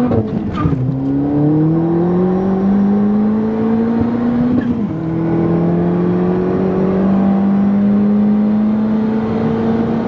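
Turbocharged car with a hybrid turbo accelerating hard through the gears: the engine note climbs, drops at an upshift just after the start and again about four and a half seconds in, then climbs steadily again.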